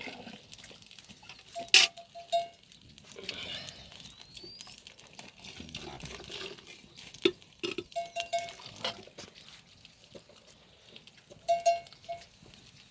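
Sharp metallic clinks with a short bell-like ring, coming in three small clusters: about two seconds in, around eight to nine seconds, and near the end.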